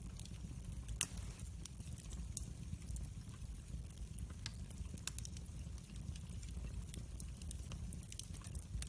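Wood fire crackling, with many small irregular pops over a low steady rumble and one louder pop about a second in.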